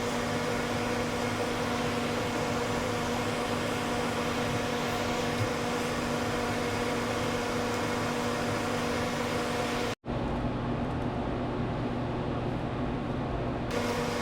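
Electric heat gun running steadily, a blowing hiss with a constant motor hum, as it shrinks solderless wire connectors and heat-shrink tubing. About ten seconds in the sound drops out sharply, then carries on with less hiss.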